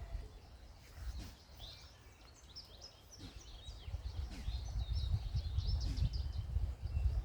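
Small birds chirping in quick, short notes over a low rumble that grows louder about four seconds in.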